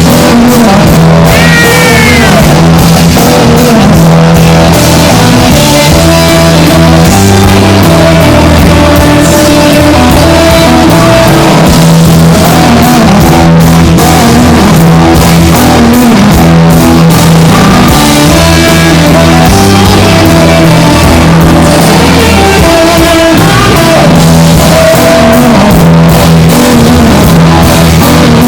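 Live rock band playing, with electric guitar, bass, drum kit and a singing voice.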